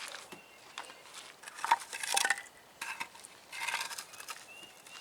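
Light metallic clinks and clatter in two short clusters, about two seconds in and again near four seconds in.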